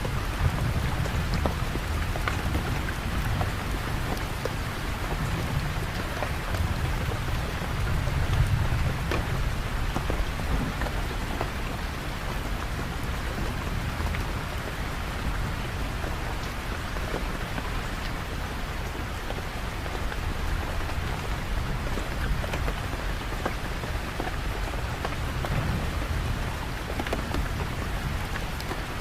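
Steady rain falling, with a low rumble underneath that swells about eight seconds in.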